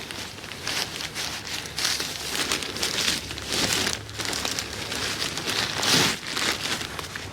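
Plastic bag of chicken manure crinkling and rustling in irregular bursts as it is opened and handled.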